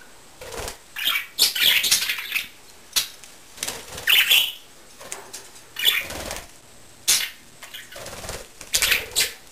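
Budgerigars' wings fluttering in short flurries, about one every second, as the birds fly in and land.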